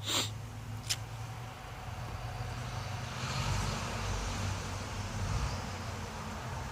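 A car passing on a road, its tyre and engine noise swelling over a couple of seconds and then fading, over a steady low hum. A short sharp click comes about a second in.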